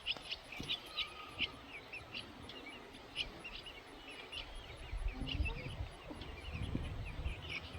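Faint outdoor bird sounds: many short, high chirps and peeps, over a faint, evenly pulsing high insect buzz. A low rumble comes in about halfway through.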